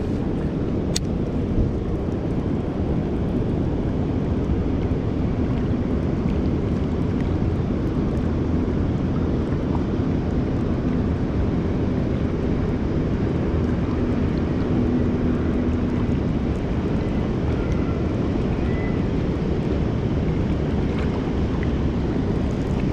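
Steady low rumble of wind buffeting the microphone outdoors, with a faint low hum in the middle stretch and a single tick about a second in.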